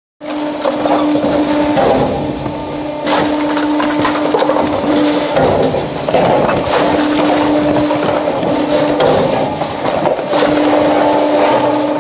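Firewood machine working wood: dense cracking and splintering with sharp snaps, over a steady machine hum that stops and starts again several times.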